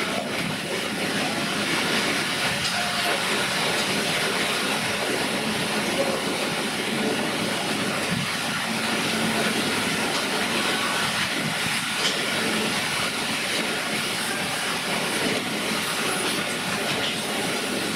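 600 mm narrow-gauge train running, heard from on board: a steady rumble and rattle of wheels on the track.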